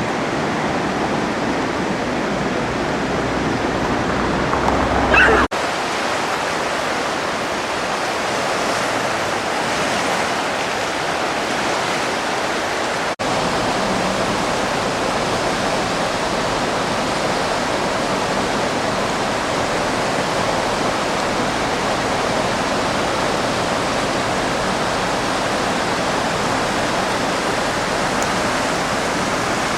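Steady rushing of the Driva river in heavy flood, about 1000 cubic metres a second of high water pouring downstream, with brief dropouts about five seconds in and again at about thirteen seconds.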